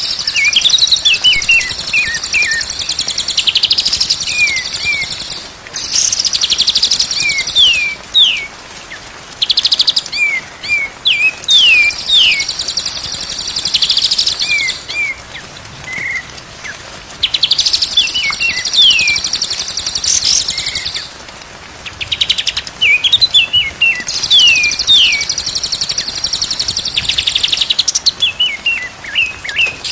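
Songbirds singing: bursts of fast, very high chattering lasting a few seconds each, alternating with runs of short downward-sliding whistles, again and again.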